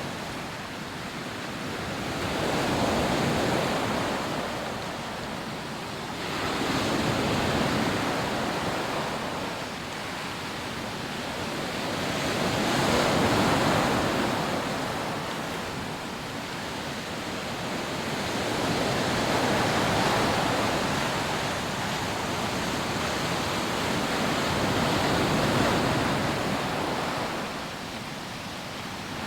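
Rough sea waves breaking on a sandy beach, a continuous surf roar that swells and recedes every few seconds as each wave comes in.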